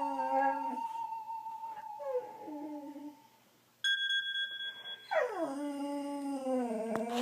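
Dog howling in response to a phone ringtone: a steady electronic ringtone beep sounds briefly about four seconds in, and then the dog sets off on a long howl that slides down in pitch and is held. A shorter howl or whine trails off in the first seconds.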